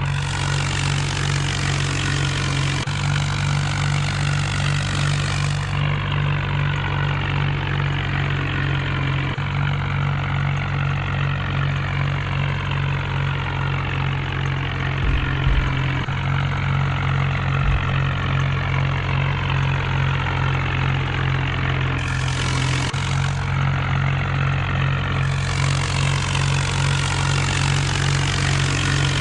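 HMT tractor's diesel engine running steadily, with a few short low knocks about halfway through.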